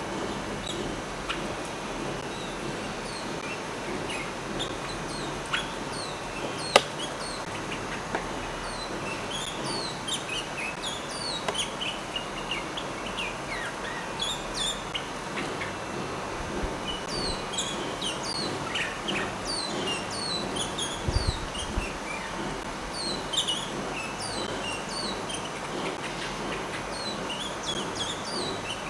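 Blackcap song: a dense run of short, high, mostly falling notes, thickest in the second half. A single sharp click cuts through about seven seconds in.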